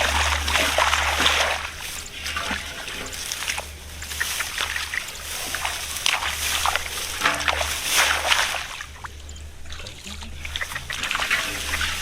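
Irregular splashing and sloshing in shallow muddy rice-field water.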